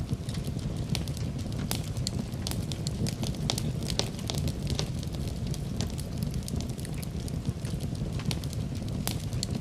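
Wood fire burning in a fireplace, a low steady rumble of flames with frequent irregular sharp crackles and pops.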